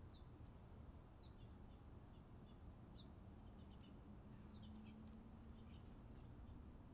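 Faint songbird chirps at a garden seed feeder: four short, high calls that slide downward, spaced a second or two apart, with softer quick chips in between. A faint low steady hum comes in about halfway through.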